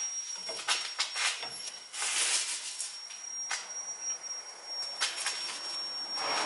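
Scattered light clicks and knocks of tools and parts being handled during car repair work, with a short hiss about two seconds in and a faint steady high-pitched tone.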